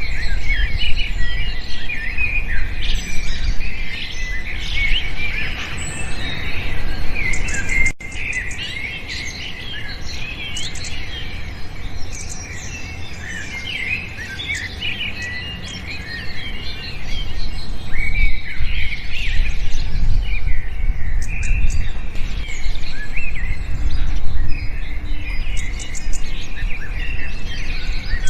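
Many small birds chirping and twittering at once in a dense, overlapping chorus, over a low rumble. The chorus drops abruptly about eight seconds in, stays thinner for several seconds, then grows busy again from about two-thirds of the way through.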